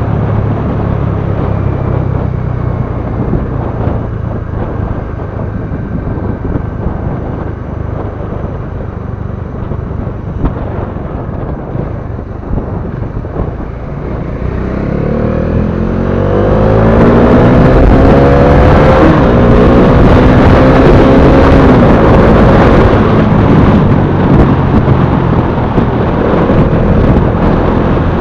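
Bajaj Dominar 400 single-cylinder motorcycle engine running under way. About halfway through it accelerates with a rising pitch, then holds a louder, higher note for several seconds before easing off a little.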